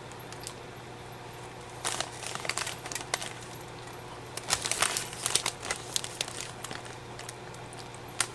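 Plastic snack bag of Smartfood popcorn crinkling as a hand rummages in it, in two spells of crisp rustling: one about two seconds in and a longer one from about four and a half to six seconds in.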